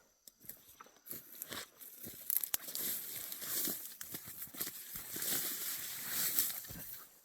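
Crackling, crinkling rustle of marsh vegetation being pushed through on foot, with irregular snaps and crunches, building about a second in and dying away near the end.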